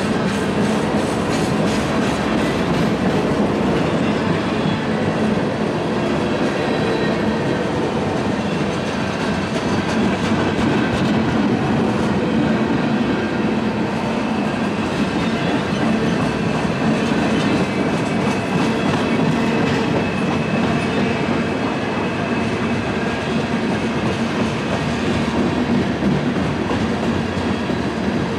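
Freight train cars rolling past close by: a steady rumble of steel wheels on rail, with the clickety-clack of wheels over rail joints.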